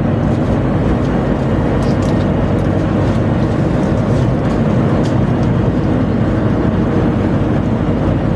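Tugboat machinery running with a steady, loud drone, with a few faint clicks over it.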